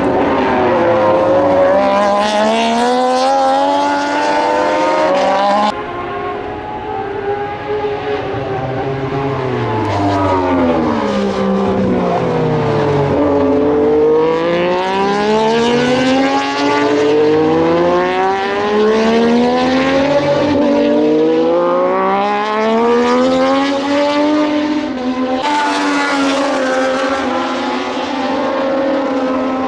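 Several Moto2 racing motorcycles with Triumph 765 cc three-cylinder engines rev hard through the gears and drop pitch on downshifts as they pass, their engine notes overlapping and rising and falling. The sound changes abruptly about six seconds in and again near the end.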